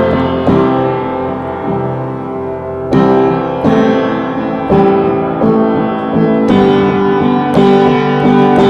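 Instrumental break of an unplugged song: solo piano chords struck every second or so and left to ring.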